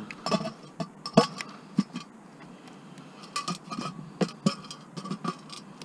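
Irregular metal clinks and knocks of a rice cooker being handled and opened, its lid and inner pot rattling, with the sharpest knock about a second in.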